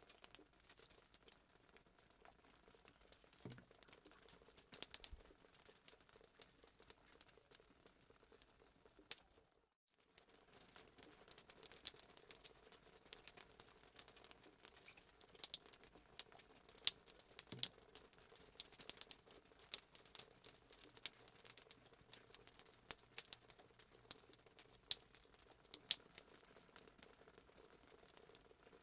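Faint fireplace sound effect: a wood fire crackling with dense, irregular small pops and snaps. It cuts out for a moment about ten seconds in, then carries on.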